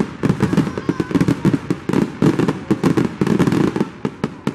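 Fireworks barrage: aerial shells bursting in quick succession, several sharp bangs a second over a continuous rumble of echoing reports.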